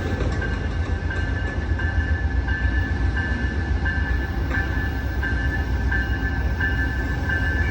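Amtrak passenger train led by a Siemens ALC-42 Charger diesel locomotive rolling very slowly into a station, with a steady low rumble. Over it a bell rings over and over, about one and a half strikes a second.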